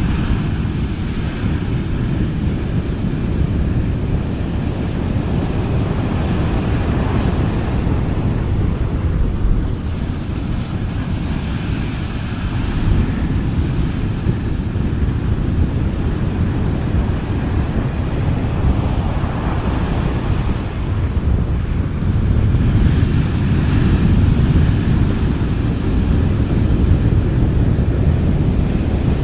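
Sea waves washing gently onto a beach: a steady low rumble with swells of hiss every few seconds as each wave breaks and runs up.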